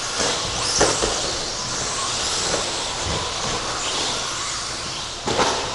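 13.5-turn brushless electric RC stadium trucks running on the race track: a steady mix of motor whine and tyre noise, with faint whines rising and falling as they accelerate and brake, and a couple of short knocks.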